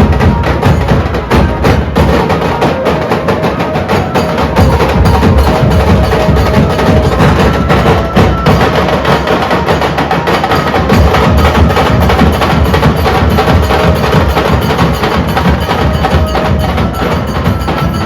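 A dhol drum group playing a loud, dense beat of rapid strokes, with deep drum hits under sharp, cracking high strokes.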